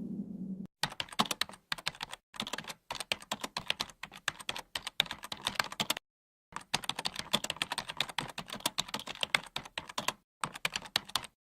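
Rapid, irregular keyboard-typing clicks in spurts, broken by a few short dead-silent pauses.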